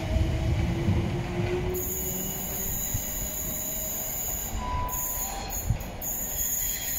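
Class 455 electric multiple unit pulling away, its wheels rumbling on the rails and fading as it moves off round a curve. There is a faint wheel squeal early on and a short higher squeal about halfway through.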